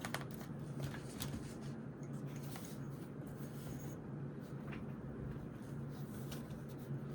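Pen writing on notebook paper in short scratching strokes, over a steady low hum.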